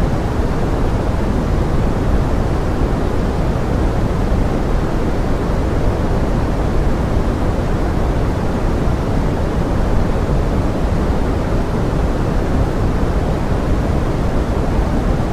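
Steady pink noise mixed with forest rain: an even, unbroken hiss weighted toward the low end, with no separate drops or other events standing out.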